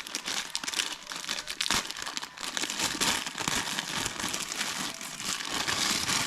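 Packaging being handled and unwrapped: continuous irregular crinkling and rustling with small crackles.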